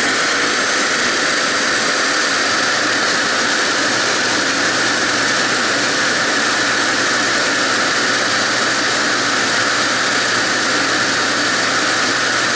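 TriStar MG2 canister vacuum running steadily at full speed: a loud, even rush of air with a faint steady whine from the motor.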